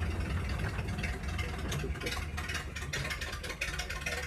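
Small gasoline engine of a narrow-gauge trolley locomotive running with a steady low rumble and rapid ticking.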